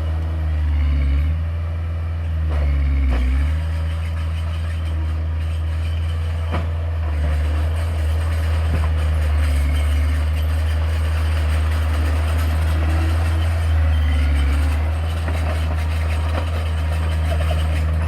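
Diesel engine of a bulldozer or dump truck running steadily at a low, even pitch, with a few faint knocks of stone or metal.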